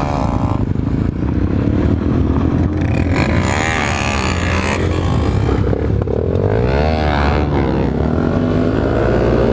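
Motorcycle engines running under way, the engine note rising and falling with the throttle, with the clearest revs about three and a half and seven seconds in.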